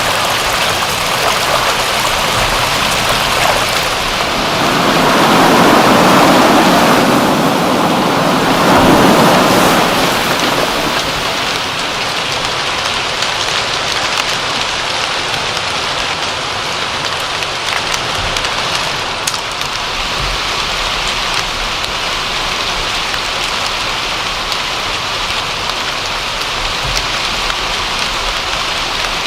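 Steady rain falling on a surface, a dense even hiss of drops. It swells louder for several seconds early on, then settles back to a steady level.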